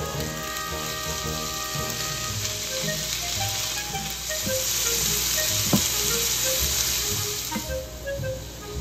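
Ground pork with chopped onion, carrot and green pepper sizzling in a frying pan as a spatula stirs it, the meat being stir-fried until it changes colour. The sizzle swells from about four seconds in, with one sharp spatula knock near the middle, and eases near the end. Light background music plays over it.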